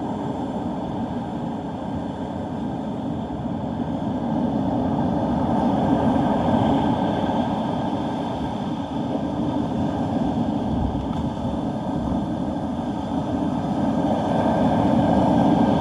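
Gusty storm wind rushing over the microphone, with the rush of rough surf under it, growing louder toward the end.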